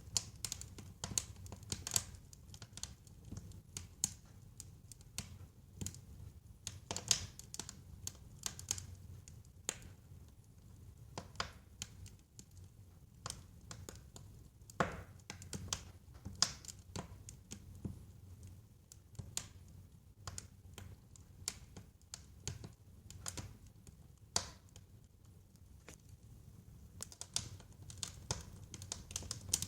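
Wood fire burning in a fireplace, crackling with irregular sharp pops and snaps over a low steady rumble of flame.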